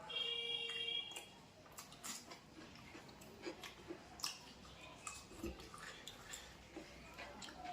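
A person chewing and eating a curry-and-roti meal, with small wet mouth clicks and smacks scattered throughout. A brief steady high-pitched tone sounds for about the first second.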